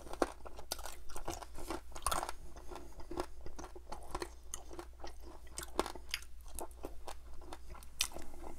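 Close-miked chewing of crispy-skinned roasted chicken drumsticks in butter chicken sauce: irregular crunches and wet mouth sounds.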